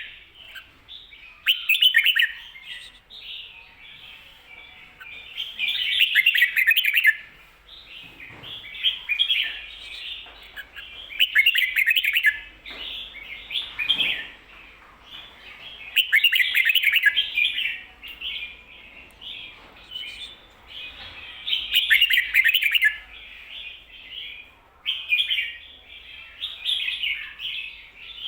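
Red-whiskered bulbul singing its doubled 'ko-ta-ra' song, a loud phrase about every five seconds with softer chattering in between.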